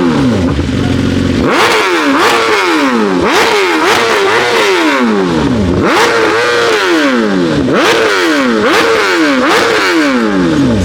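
A performance car's engine being free-revved hard again and again through a loud exhaust, about once a second. Each blip jumps up and falls away in pitch, and many start with a sharp crack.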